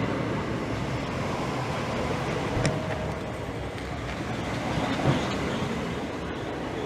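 Class 365 electric multiple unit rolling slowly along the platform, a steady rumble from its wheels on the rails with a sharp click about two and a half seconds in and another about five seconds in.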